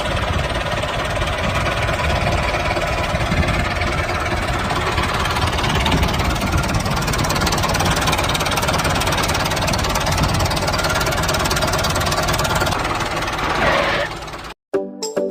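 A handmade miniature tractor's motor running steadily under load while it pulls a small disc plough. It cuts off suddenly near the end, and music starts.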